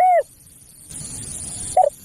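Spotted dove cooing: a short coo at the start and another near the end, with a soft hiss between them about a second in.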